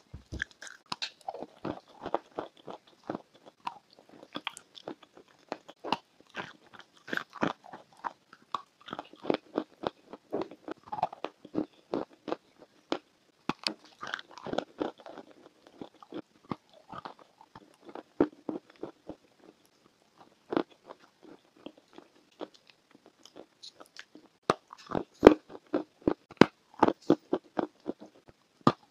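Close-up crunching as someone bites into and chews a hard, powdery block of pressed chalk: sharp, dry crunches in clusters with softer chewing between bites. The loudest bites come near the end.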